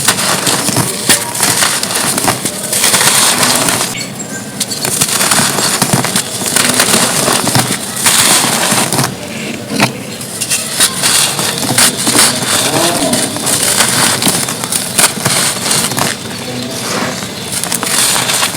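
Dry, gritty red dirt cones being crumbled and crushed, a dense crunching crackle in stretches of several seconds with brief let-ups between them.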